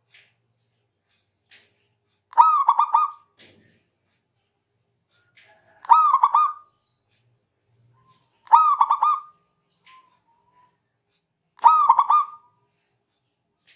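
Zebra dove (perkutut) cooing: four short song phrases about three seconds apart, each a quick run of rolling coos lasting under a second.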